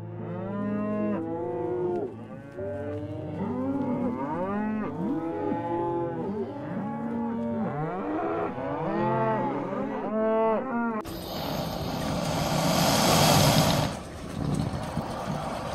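A herd of bison calling over one another, many overlapping bellows, each rising then falling in pitch. About eleven seconds in the calls give way to a loud rushing hiss that lasts about three seconds, then a fainter steady hiss.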